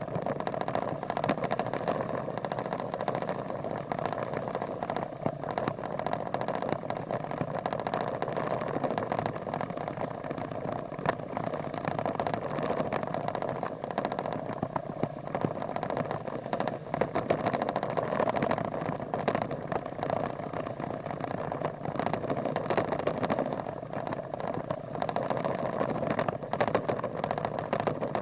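A vehicle's engine running steadily, with scattered small clicks and rattles.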